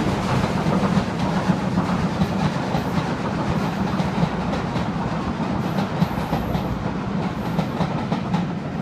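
A train of passenger coaches rolling past at close range, a steady rumble with the wheels clicking over the track.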